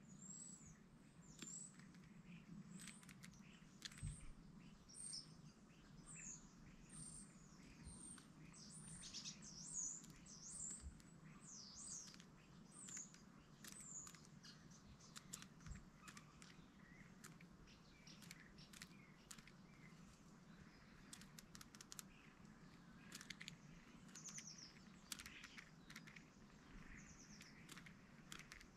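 Faint, high-pitched chirping of small birds: many short calls, thickest in the first half with a few more later, over a low steady hum.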